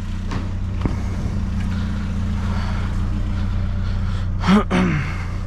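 Vehicle engine running steadily with a low hum. A brief vocal sound comes about four and a half seconds in.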